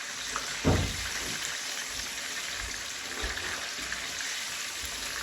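Coated chicken tenders deep-frying in hot oil, a steady sizzle, with one low thud about two-thirds of a second in.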